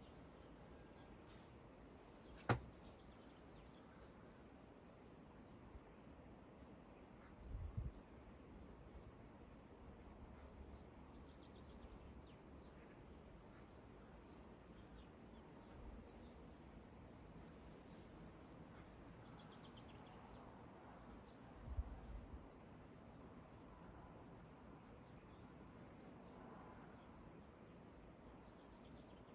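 Faint, steady high-pitched chirring of crickets. A single sharp click comes a couple of seconds in, and two brief low bumps come later, one about a quarter of the way through and one about three quarters through.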